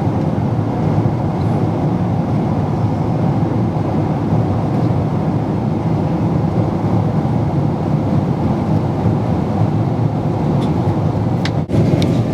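Steady roar of jet engines and airflow heard inside a passenger airliner's cabin in flight, broken by a brief dip in level near the end.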